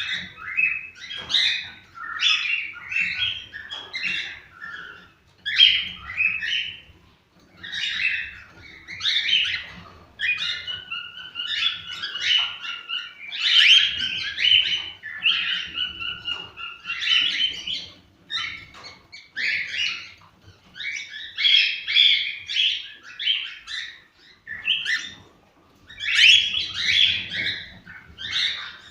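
Cockatiels singing: dense, repeated whistled and chirping phrases with short pauses between them, going on without a break.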